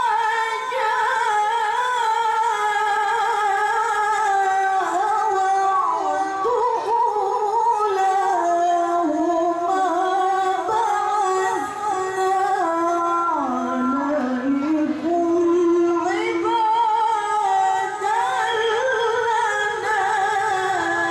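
A woman reciting the Quran in the melodic tilawah style in a high voice: long held notes decorated with quick turns. The voice sinks to a lower pitch about two-thirds of the way through, then climbs high again near the end.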